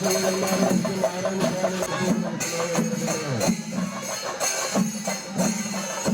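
Kerala temple-festival music: a percussion ensemble of drums and metal hand cymbals playing continuously, with a held pitched tone sounding over it.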